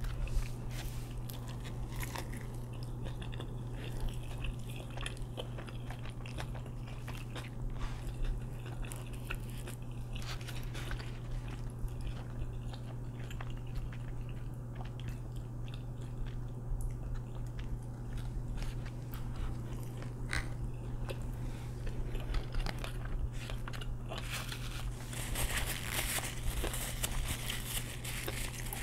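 Close-miked chewing and biting into a Chick-fil-A spicy deluxe fried chicken sandwich: crunchy bites and wet mouth sounds, over a steady low hum. Near the end comes a rustle of a paper napkin.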